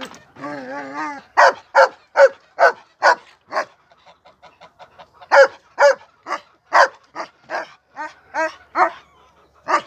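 A dog barking repeatedly in two runs of short, sharp barks, about two or three a second, with a brief pause in the middle.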